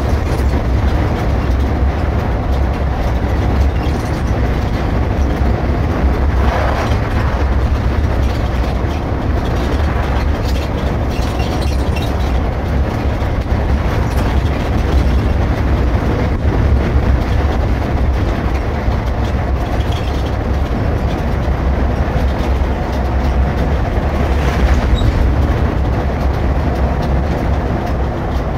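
Irisbus Récréo II coach under way: a steady low rumble of engine and road noise that runs on without a break.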